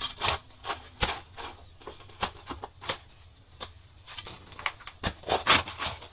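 An irregular run of short clicks and knocks, two or three a second, with rustling between them: objects being handled.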